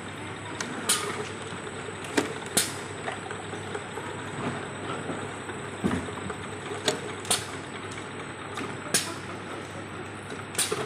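Automatic engine oil filling machine running: a steady mechanical hum broken by sharp clicks and short hisses at uneven intervals, every second or two.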